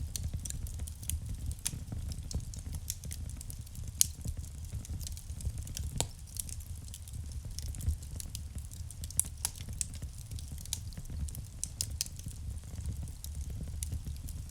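Wood fire burning in a fireplace: irregular crackling and sharp pops from the burning logs over a low, steady rumble of the flames, with the loudest pop about four seconds in.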